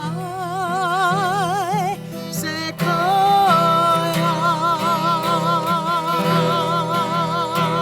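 A song: a solo voice sings long held notes with a wide, even vibrato, over a guitar accompaniment.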